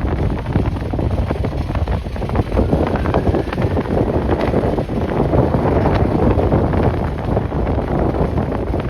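Strong gusty wind buffeting the microphone: a loud, uneven rumble that rises and falls with the gusts.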